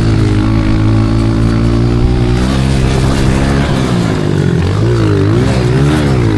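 Honda CRF125 pit bike's single-cylinder four-stroke engine running under throttle while ridden. It holds a steady pitch for the first few seconds, then revs rise and fall several times as the throttle is rolled on and off.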